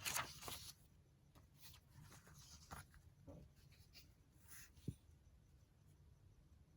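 Faint paper rustling and scraping as journal pages are handled, with a brief louder rustle at the start and a single light tap about five seconds in.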